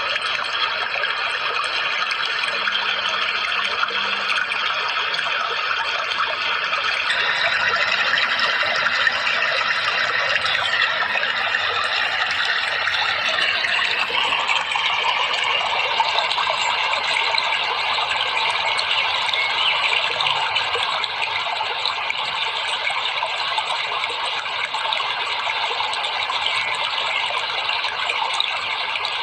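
Steady rushing water, a constant hissing flow whose sound shifts about seven seconds in and again about fourteen seconds in.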